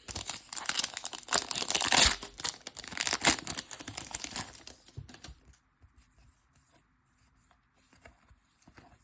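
Plastic foil wrapper of a trading-card pack being torn open and crinkled, a dense crackling that goes on for about five seconds. It then gives way to a few faint ticks and rustles.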